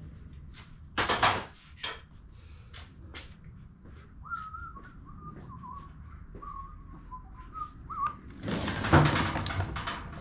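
A person whistles a short wavering tune for about four seconds in the middle. Knocks and clatter from a push mower being handled come near the start, and a louder stretch of clatter comes near the end.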